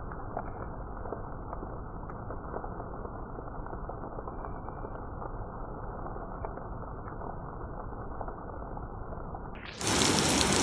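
Rain, sounding deep and muffled with scattered drop ticks. Near the end it cuts abruptly to louder, crisp rain falling on surfaces.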